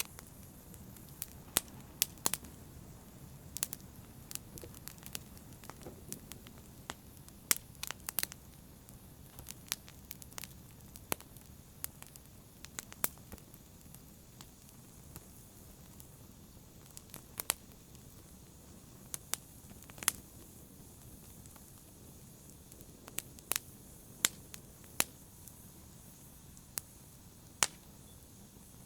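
Fire burning with a soft steady hiss, broken by irregular sharp crackles and pops, a few each second at most.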